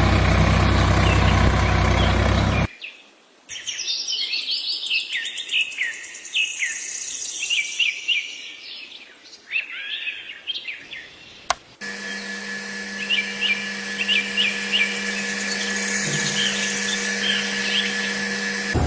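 Small songbirds chirping and twittering, many short rapid calls. It starts after a loud passage that cuts off abruptly about three seconds in, and in the second half the chirps continue over a steady low hum.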